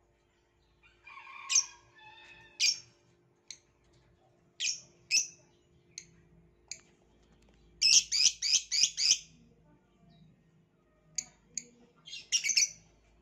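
Violet lovebird giving short, shrill chirps, mostly one at a time, with a quick run of about five about eight seconds in.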